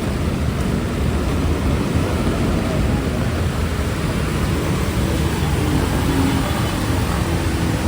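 Steady rush of heavy rain mixed with street traffic, a continuous noisy wash over a low rumble.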